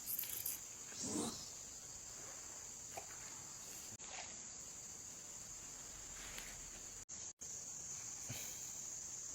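Steady, high-pitched chorus of crickets and other insects, with a brief louder noise about a second in.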